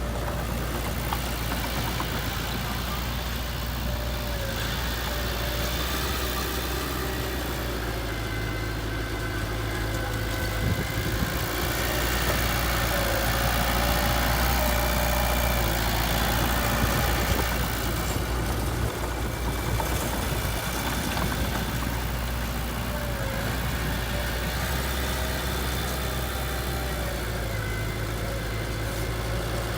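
Diesel engine of heavy earthmoving equipment running steadily at low revs, with a deep hum, growing slightly louder for a few seconds midway.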